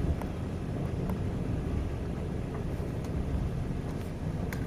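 Steady low rumble of a Trans-Siberian passenger train running, heard from inside the carriage, with a few faint clicks.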